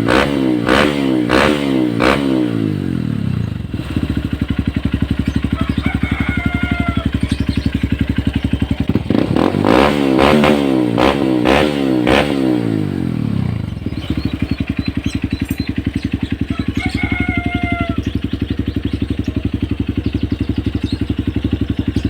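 Honda CRF motorcycle engine through an aftermarket Norifumi exhaust, blipped about twice a second for a few seconds, settling to a steady idle, then blipped again for about four seconds before idling once more.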